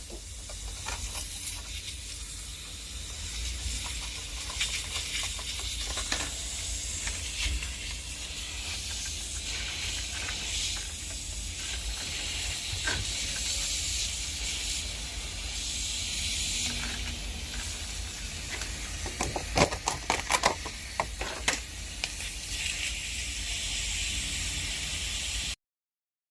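Steady hiss of water escaping under pressure, over a low rumble, with a cluster of sharp clicks about twenty seconds in; the sound cuts off suddenly near the end.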